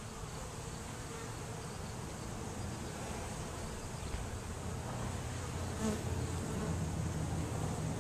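Swarm of honeybees buzzing: a steady hum of many bees clustered and flying about a new nest site, growing slightly louder toward the end.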